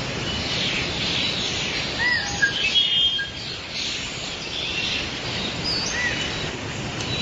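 Songbirds chirping outdoors: short high whistled notes and a couple of brief arched calls, over a steady hiss of background noise.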